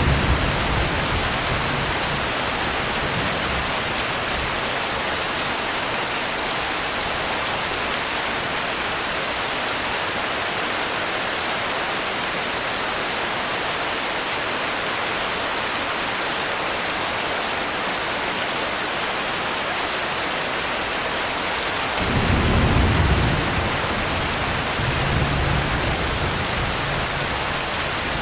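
Steady rain hissing, with a low rumble of thunder dying away in the first few seconds and another roll of thunder rising about three-quarters of the way through.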